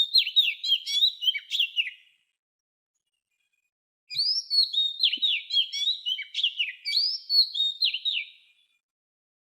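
A small songbird singing two fast, high phrases of short chirps and down-slurred notes. The first phrase ends about two seconds in, and after a gap of about two seconds a longer second phrase runs to about eight and a half seconds.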